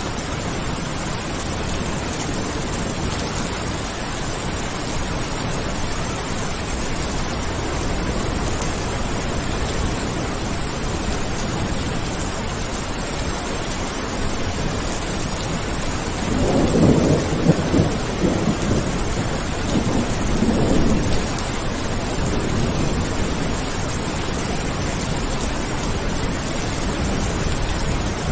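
Steady rain hiss throughout, with a rolling thunder rumble about two-thirds of the way in that swells twice before fading back into the rain.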